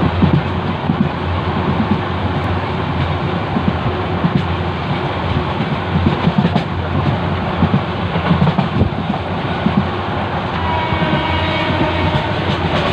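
Passenger train running at speed, heard from inside a coach by the window: a steady rumble of wheels on the track with frequent irregular low thumps.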